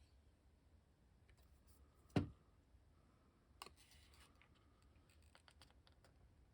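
Paper and craft tools handled on a tabletop: one sharp tap about two seconds in, then a few faint clicks and a light paper rustle over low room tone.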